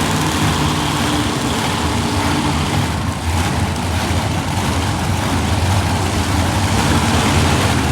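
Monster truck engine running loud and steady, a low engine drone that dips slightly about three seconds in.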